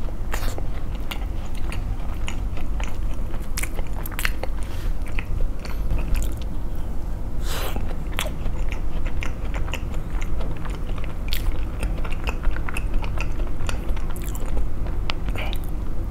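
Close-miked biting into and chewing an egg tart: many short, crisp crunches of the pastry crust scattered through the chewing, over a steady low hum.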